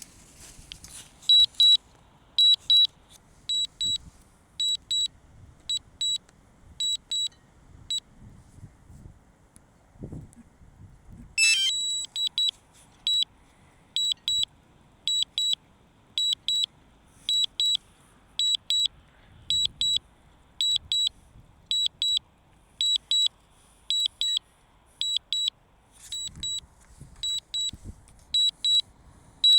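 DJI Mavic Mini controller app sounding a warning: pairs of short high-pitched beeps about once a second. The beeps pause for a few seconds in the middle, where a brief hiss is heard, then resume.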